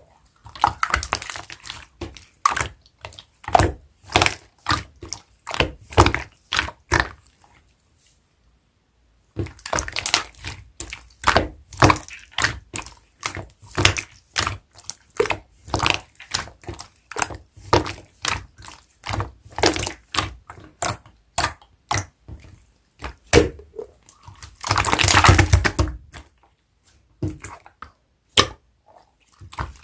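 Large clear slime being squeezed and pressed by hand, giving a string of short wet squishes and pops, one to two a second. They stop for about a second a third of the way in, and a longer squelch comes near the end.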